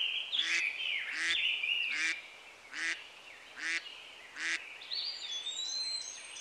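Birdsong: a bird gives a harsh call six times, about once every three-quarters of a second, over the chirping and warbling of smaller birds. Thin high whistles sound toward the end.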